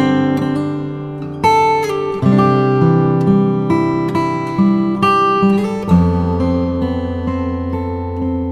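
Acoustic guitar music: plucked and strummed chords, a new chord struck every second or so.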